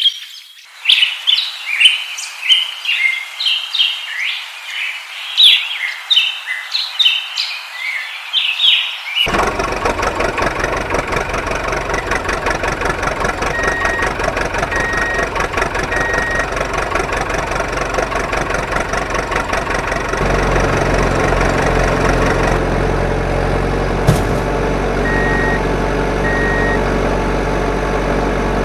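Birds chirping for the first several seconds, then an engine starts running abruptly and keeps going steadily, with a series of reversing beeps twice. A deeper engine rumble joins about two-thirds of the way in.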